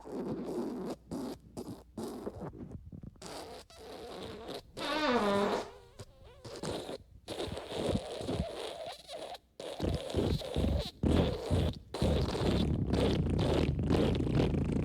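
A string of fart sound effects: several short sputtering farts, a squeaky one about five seconds in that falls in pitch, then a longer continuous rasping fart from about twelve seconds in.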